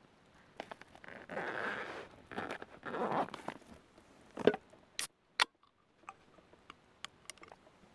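Handling noises: two spells of rustling, then three sharp clicks a half-second apart and a few faint ticks.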